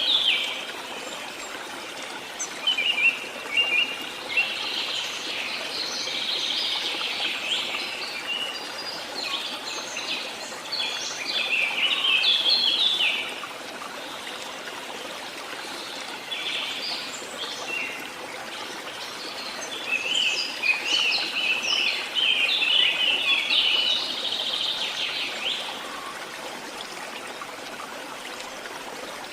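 Songbirds singing and chirping in repeated phrases over a steady background hiss of flowing water, with a quieter stretch near the middle and again near the end.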